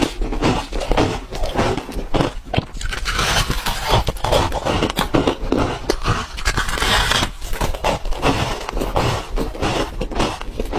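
Ice being bitten and chewed: a steady stream of crunches and cracks with no real pauses.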